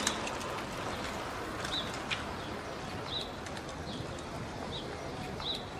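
Street ambience: a steady hiss of background noise, with a small bird giving short high chirps about once a second.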